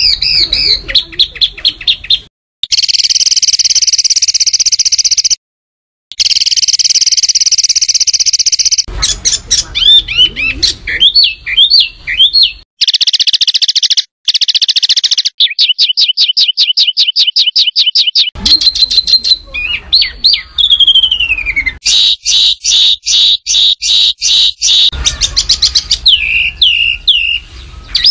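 Songbird calls spliced into a masteran tutor track. Loud, harsh, rapid trills, buzzy held notes and fast runs of sharp repeated chips, with one falling whistled note about two-thirds of the way in. Several abrupt cuts and short silences mark the joins between clips.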